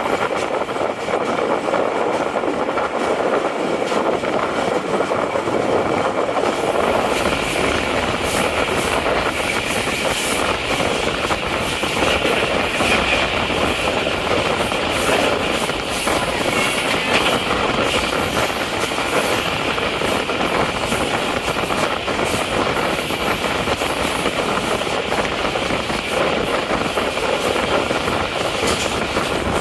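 Passenger train accelerating out of a station, the diesel locomotive working hard under a steady rush of running noise, with wheels clicking over rail joints. The running sound grows brighter about seven seconds in as speed builds.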